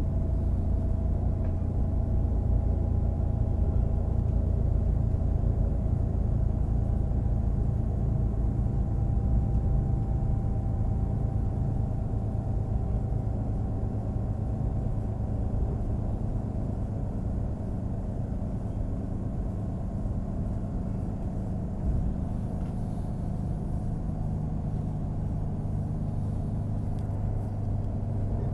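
Class 642 diesel railcar running, heard from inside: a steady low rumble of the diesel engines and wheels on the rails, a little quieter from about halfway through.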